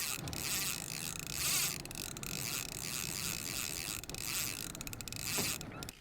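Fishing reel's drag buzzing steadily as a big fish strips line off the reel, a sign the fish is running hard. The sound stops suddenly near the end.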